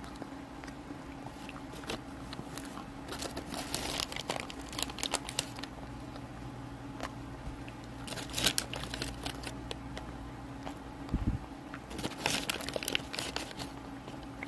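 Close-miked eating ASMR: irregular crunching and crinkling, with a dull thump about eleven seconds in and a steady low hum underneath.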